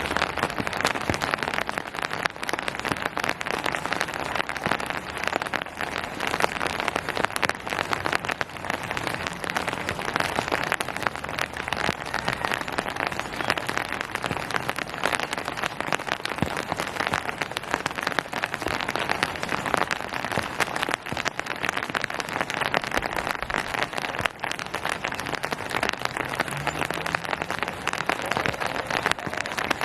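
Steady rain falling on a hard surface, a dense patter of many fine drop impacts without a break.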